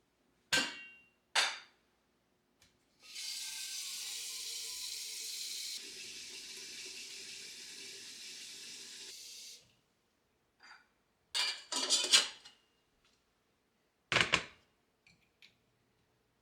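Water running steadily into a vessel for about six seconds, its sound changing partway through, between a few sharp clinks of dishes being set down and handled.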